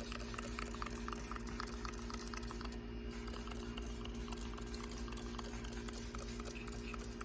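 Fine, steady crackling and fizzing of foaming Spray 9 degreaser working on engine grime, over a low steady hum.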